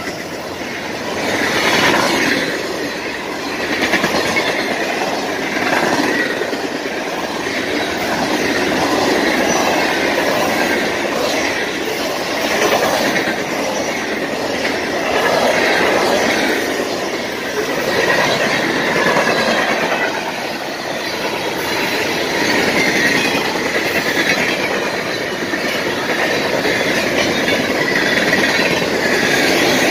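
Freight cars of a CSX mixed freight train rolling past close by: a steady rumble and clatter of steel wheels on the rails that swells and eases as the cars go by.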